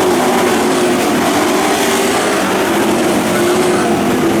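Pro truck race engines running at speed around a dirt oval, a loud steady drone with no break.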